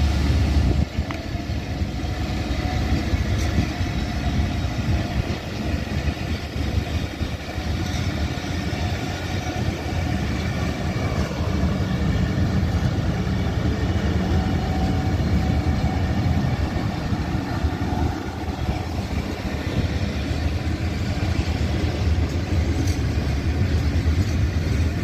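Passenger train rolling along the track: a steady rumble of coaches' wheels on the rails.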